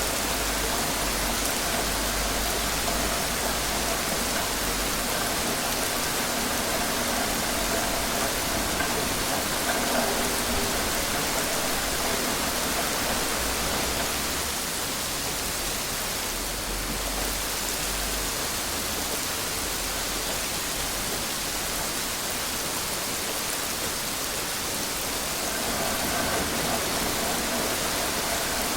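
Steady rain falling, an even hiss that eases slightly about halfway through and picks up again near the end.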